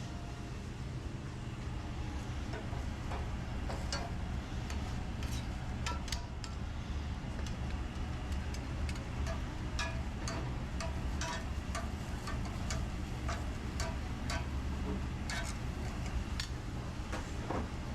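Busy commercial kitchen ambience: a steady low hum with frequent short clinks and clatters of utensils, pans and dishes scattered throughout.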